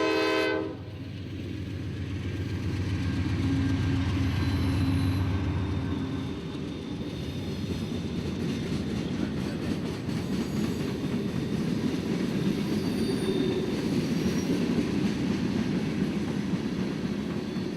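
A freight train's horn cuts off under a second in. The diesel locomotives then pass with a steady low engine hum, followed by freight cars rolling by with steady wheel noise.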